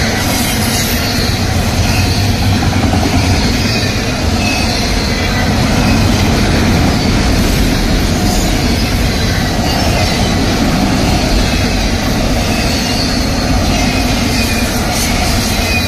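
Freight train of autorack cars rolling past close by: a steady, loud rumble and clatter of steel wheels on rail.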